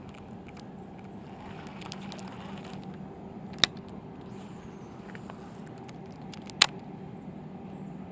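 A steady low hum, with two sharp clicks about three seconds apart, the second the louder.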